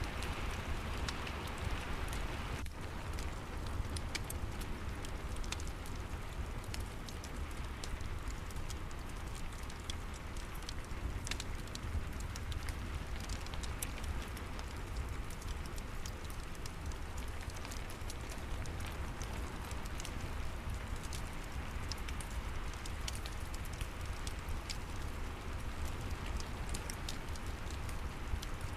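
Steady rain falling, mixed with a fireplace crackling: many small sharp pops scattered irregularly over an even hiss, with a low rumble underneath.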